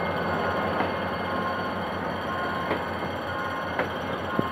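Passenger coaches rolling past on the track: a steady rumble of wheels on rail, with a few short knocks as the wheels pass over rail joints.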